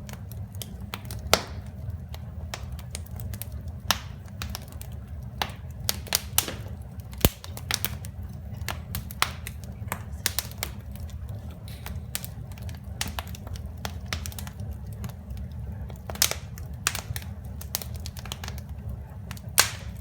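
Wood fire crackling, with sharp pops at irregular intervals over a steady low rumble; the loudest pop comes about seven seconds in.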